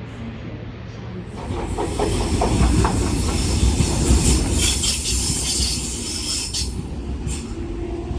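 Sydney Trains B-set (Waratah Series 2) electric train departing. A rumble and high hiss build about a second in, with a quick run of wheel clicks over the rail joints, then ease off near the end.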